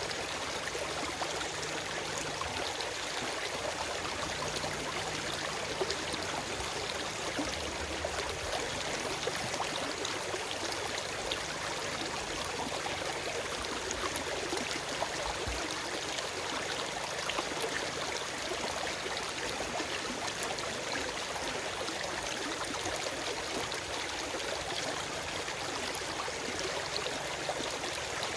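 Forest stream flowing steadily over rocks: an even rushing with small splashes and gurgles, and no birds.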